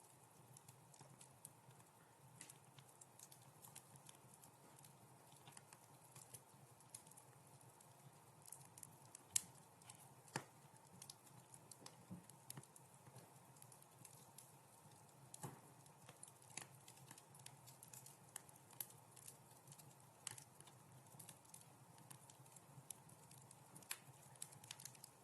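Wood fire crackling softly in a fireplace: scattered small pops and snaps over a faint steady hiss, with a couple of sharper pops about nine and ten seconds in.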